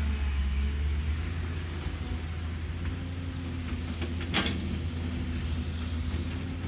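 Caterpillar excavator's diesel engine running steadily with a low hum, and a single sharp knock about four and a half seconds in.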